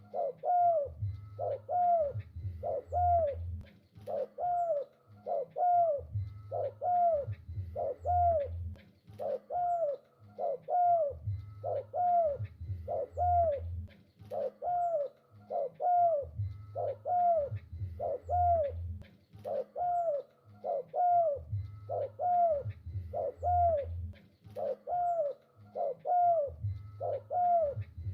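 Spotted dove (tekukur) cooing persistently, its phrases repeating in an even pattern about every five seconds.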